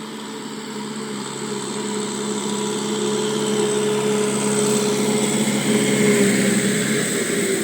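Tractor engine running steadily at an even pitch, growing gradually louder over the first several seconds.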